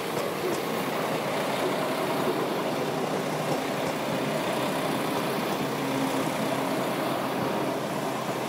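A train running steadily, a continuous mechanical hum with faint steady tones and no sudden sounds.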